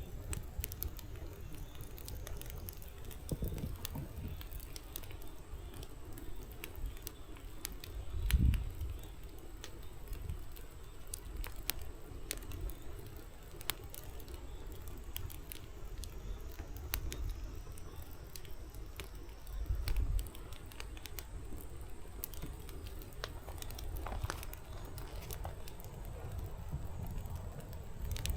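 Firewood burning in a fireplace: scattered crackles and pops over a low steady rush of flame, with two louder low puffs, about eight seconds in and again near twenty seconds.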